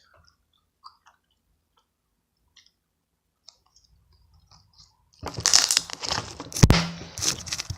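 Crunchy slime, made with clear glue, Tide and soap, being squeezed and worked by hand. A few faint clicks, then about five seconds in a loud, dense run of crackling and popping.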